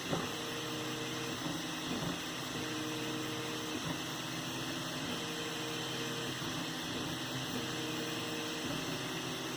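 3D printer running a print: its stepper motors whine in short steady tones of about a second each that start, stop and change pitch as the head moves, over a constant fan hiss.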